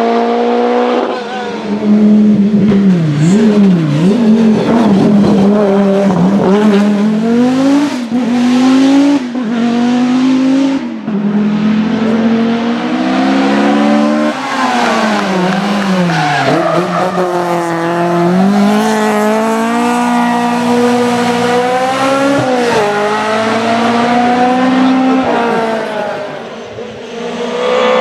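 Classic rally car engine at high revs, its pitch climbing and falling again and again as it changes gear and lifts off, with short sharp drops every few seconds.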